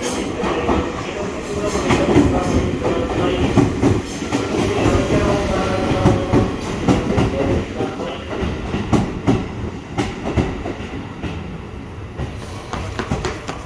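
Electric train running on the rails, its wheels clicking over rail joints, with wavering tones over a steady rumble that fades a little near the end.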